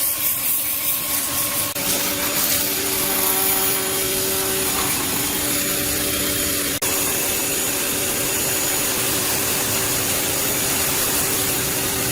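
A power tool running steadily with a loud hiss, cutting out for an instant about seven seconds in.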